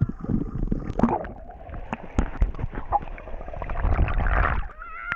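Sea water gurgling and splashing, with muffled low rumbling and scattered knocks, swelling about four seconds in and cutting off suddenly just before the end.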